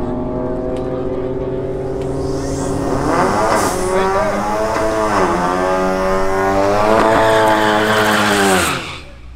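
Drag-racing car engine at full throttle, its pitch climbing and then dropping at each gear change, about three and five seconds in. It cuts off suddenly near the end.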